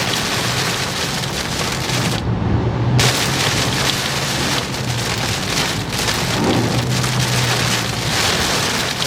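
Heavy rain pounding on a car's roof and windshield, heard from inside the moving vehicle, with a steady low road and engine hum underneath. The hiss dulls briefly about two seconds in.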